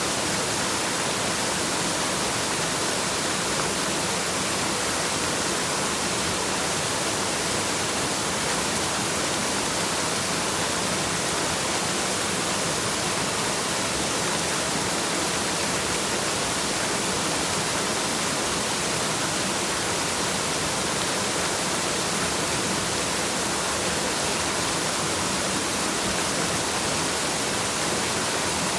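Waterfall: a steady, even rush of falling water, with no breaks or changes.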